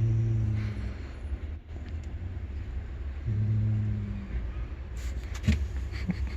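Low traffic rumble with two short, steady low hums about three seconds apart, like passing engines.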